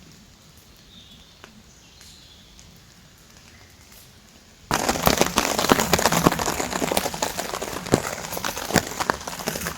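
Light rain pattering faintly. About halfway through, a sudden loud, dense crackling and crinkling full of sharp clicks cuts in and continues.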